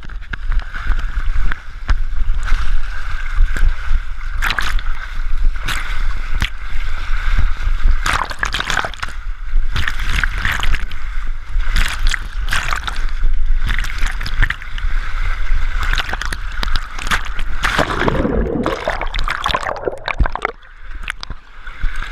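Water rushing and sloshing down a water slide as a rider slides through it, with repeated splashes and bumps.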